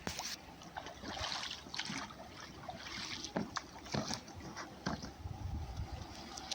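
Water lapping and splashing against a small boat's hull, with scattered light knocks and trickling.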